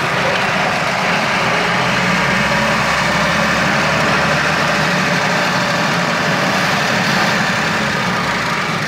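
Newly fitted engine of a Toyota Land Cruiser HJ45 running steadily while driving, heard from inside the cab.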